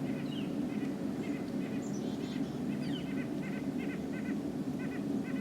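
A flock of birds calling: a dense, steady low chorus with many short, repeated calls and a few higher chirps on top.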